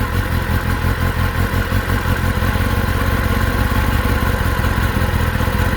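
Stock-exhaust 2024 Kawasaki Ninja ZX-10R inline-four engine idling steadily.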